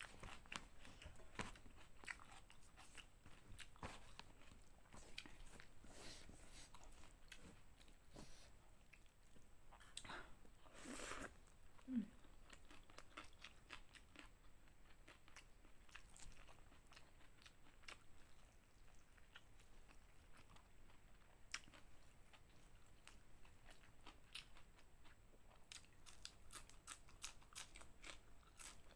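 Close mouth sounds of a person eating: wet chewing with crisp crunches of raw vegetables, with a quick run of crunching near the end as a raw leafy green stalk is bitten. One brief louder sound comes about twelve seconds in.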